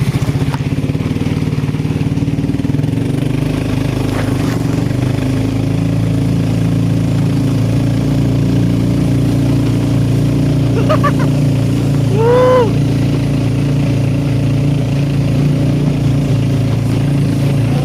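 A vehicle engine running steadily at an even speed, heard from on board, with a short call that rises and falls in pitch about twelve seconds in.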